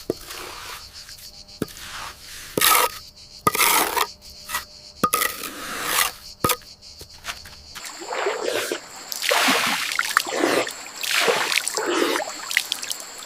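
Water splashing and sloshing in irregular swells, with a few sharp knocks in the first half.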